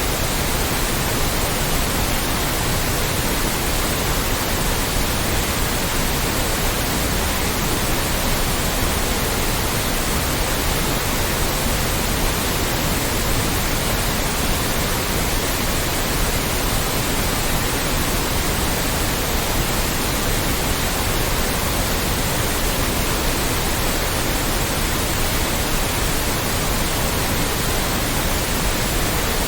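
Loud, steady white noise: an even, unchanging hiss spread across all pitches.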